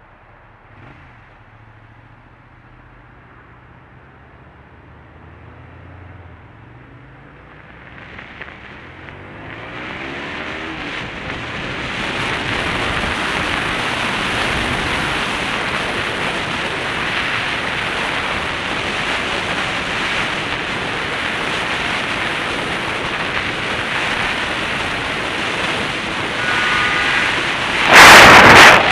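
A vehicle accelerating, its engine and wind and road noise building to a steady loud rush, then a very loud sudden crash near the end: the collision between the car and the motorcycle.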